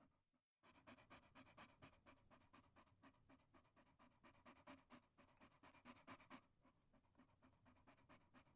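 Chihuahua panting fast and faintly, about six quick breaths a second. The panting starts just under a second in, after a brief gap, and softens for the last two seconds.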